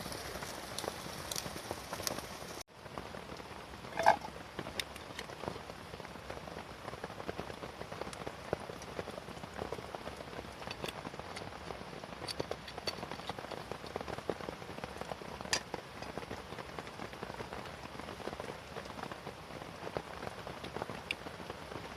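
Steady rain falling on a tent, a soft even patter with many small drop ticks. The sound cuts out for an instant about three seconds in. Just after, about four seconds in, there is a single louder short clink.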